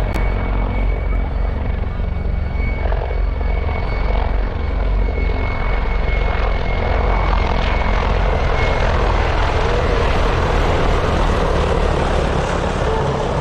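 Military helicopter flying close by: loud, steady rotor and turbine noise with a thin high whine that fades out about two-thirds of the way through.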